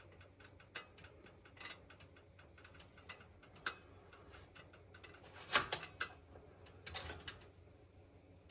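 Gas oven in use making irregular ticking and clicking, with a few louder clicks about five and a half and seven seconds in: the noise put down to a bad, weak igniter.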